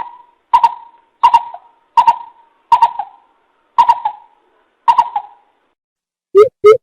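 Coucal (bìm bịp) calling a series of short hollow hooting notes, about one every two-thirds of a second. Near the end it switches to a faster run of deeper booming notes.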